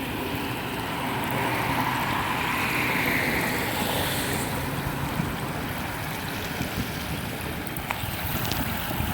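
Outdoor wind rushing over the microphone, with a faint low steady hum underneath.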